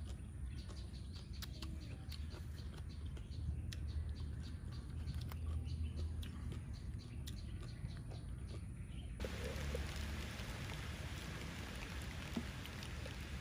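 Eating sounds: chewing and many small mouth clicks over a steady low rumble. About nine seconds in, a steady hiss comes in under them.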